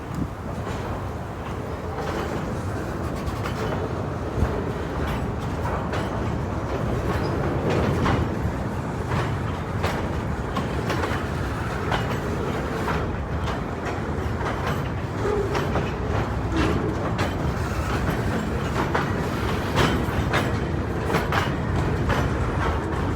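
Freight train rolling past: a steady rumble with the wheels clicking irregularly over the rail joints.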